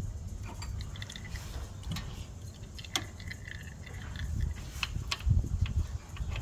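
Scattered light metallic clicks and taps of tools being handled, with one sharper click about three seconds in, over a steady low rumble.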